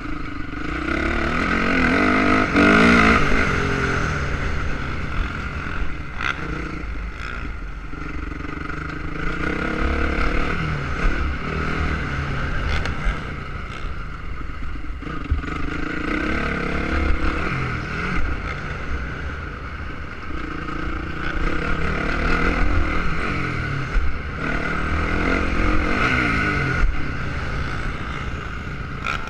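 Motocross motorcycle engine revving hard and easing off again and again, its pitch climbing and falling every few seconds as the bike accelerates and backs off, over a steady low rumble.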